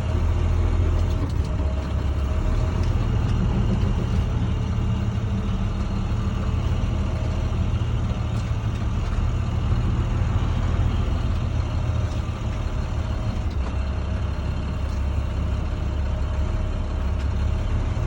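Box truck's engine running steadily at low revs, a continuous low hum.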